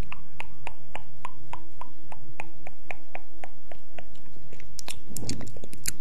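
An even run of short clicks, about three a second, over a faint steady hum, with a brief low rustle on the microphone near the end.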